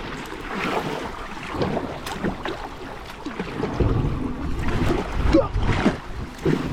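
Water splashing and moving around a kayak on a creek, with wind buffeting the microphone; it gets louder from about four seconds in.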